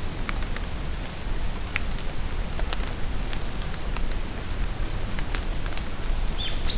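Steady rain falling, with many single drops ticking close by. Brief high bird chirps come now and then, and a short rising bird call sounds near the end.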